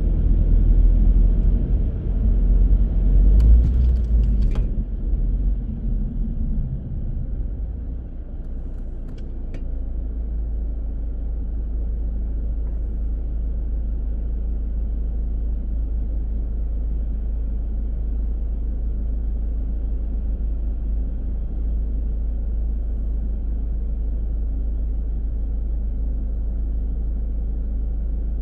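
Car driving: uneven engine and road rumble for the first several seconds, with a couple of brief clicks, then it settles into a steady low hum for the rest.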